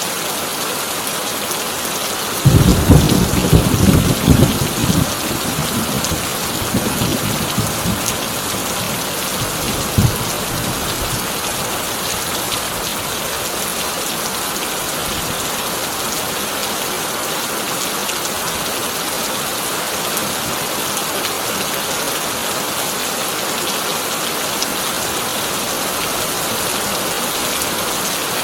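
Heavy rain falling steadily on a corrugated tin roof. About two and a half seconds in, a loud clap of thunder rumbles on for several seconds, and a shorter crack of thunder follows about ten seconds in.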